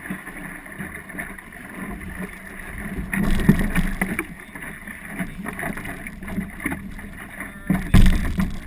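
Wind buffeting the microphone of a camera aboard an Optimist sailing dinghy, with boat and water noise underneath; louder gusts come about three seconds in and again near the end.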